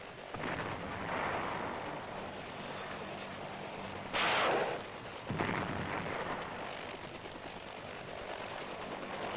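Helicopter gunship fire: a continuous rattle of gunfire over a steady engine drone, with two loud blasts about four and five and a half seconds in.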